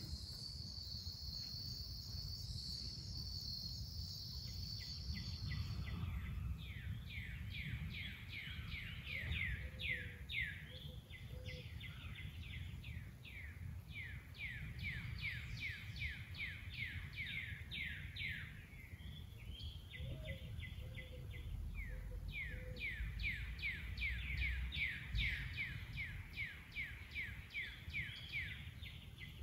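Outdoor natural ambience: a steady high-pitched insect trill for the first five seconds, then a bird calling in long runs of quick, falling chirps, a few each second, over a low background rumble.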